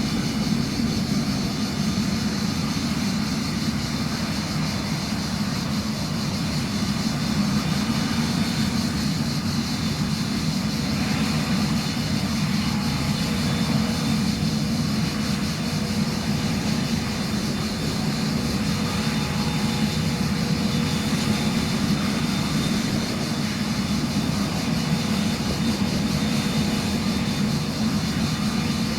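Cessna Citation CJ3's twin Williams FJ44 turbofan engines running steadily at low power, a constant high whine over a low, even engine noise.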